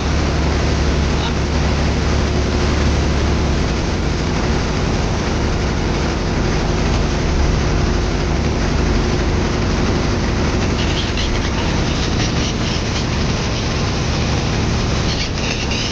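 Motorboat engine running steadily, heard from aboard the boat as a low, even hum.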